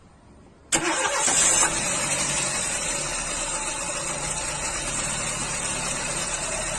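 A loud, steady car noise, engine and road rush mixed, cuts in suddenly about a second in and holds steady.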